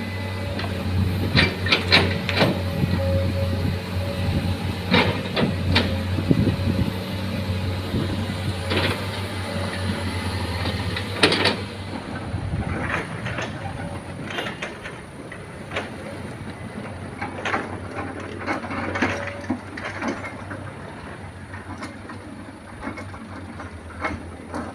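Heavy truck engine running low and steady, with repeated metallic clanks and knocks. The sound is louder in the first half and eases off somewhat about halfway through.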